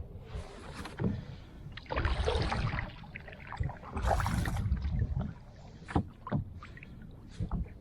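Kayak being paddled: two long strokes of water swishing and splashing, with scattered knocks in between.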